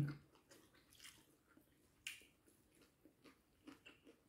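Near silence with faint eating sounds: soft, scattered mouth clicks and smacks of chewing, the clearest about two seconds in.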